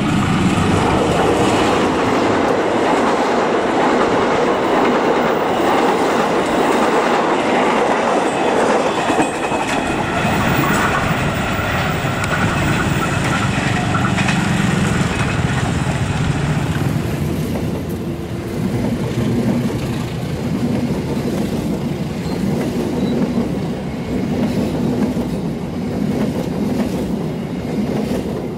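Diesel-hauled passenger train passing at speed close by: a loud, steady rumble of wheels on rails with a clickety-clack over the rail joints, easing somewhat past the middle.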